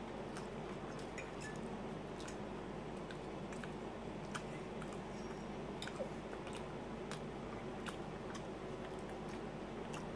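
A person chewing bacon close to the microphone, with scattered small wet clicks and a couple of slightly louder ticks about four and six seconds in, over a steady low background hum.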